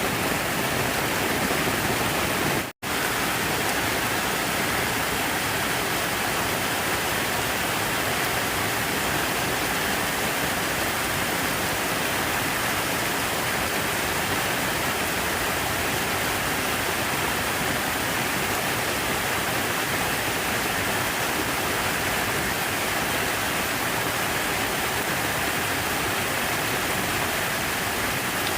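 Steady rush of falling water, an even hiss without rhythm, like a fountain or artificial waterfall. The sound cuts out completely for a split second just under three seconds in.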